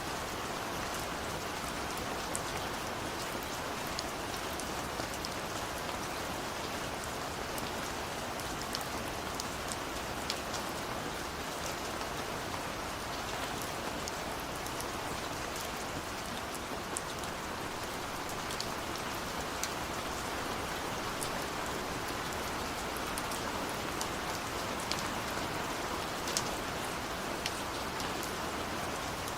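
Steady rain pattering on a window, with scattered sharper drop ticks over an even hiss.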